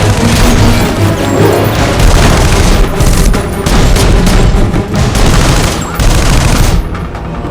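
Action film soundtrack: loud score music mixed with booms and crashing impacts.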